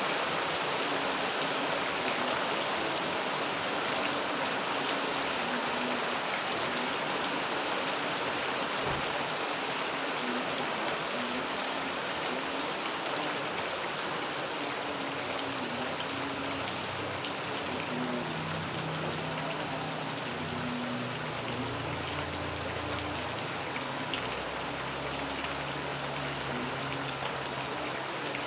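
Steady rain falling: an even hiss with the patter of drops. A faint, wavering low tone runs underneath, and a deeper low hum comes in about two-thirds of the way through.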